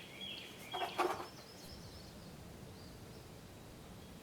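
A bird calling three short, high notes in quick succession, each dropping at the end. Two sharp clicks come about a second in, then only faint outdoor background.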